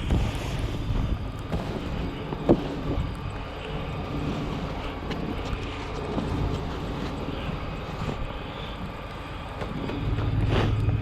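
Snow-plowing vehicle's engine running steadily, with a single sharp knock about two and a half seconds in and the engine growing louder near the end.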